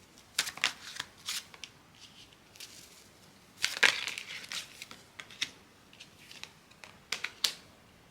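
A deck of tarot cards being shuffled and handled: a run of irregular soft slaps and riffling clicks, loudest a little under four seconds in, with another pair near the end.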